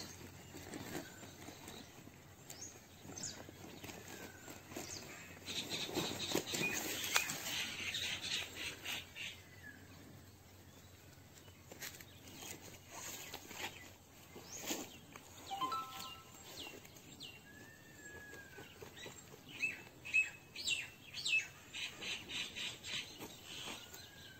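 Wild birds chirping and calling: runs of quick high chirps, and a few short whistled notes and sliding calls in between.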